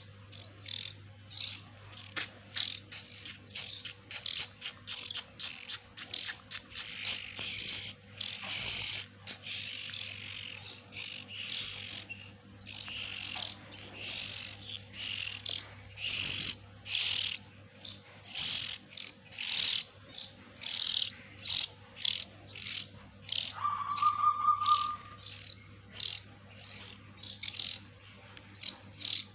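A brood of oriental magpie-robin nestlings chirping, a dense stream of short high calls a few per second. About 24 seconds in, a steady, lower tone sounds for about a second and a half, the loudest sound.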